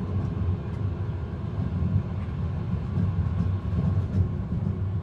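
Steady low rumble of a moving passenger train heard from inside the carriage, with a few faint ticks, and no music over it.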